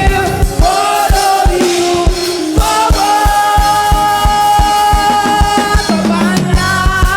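Live choir and band playing together: long held sung and sustained chords over a steady kick drum beat, about two strokes a second.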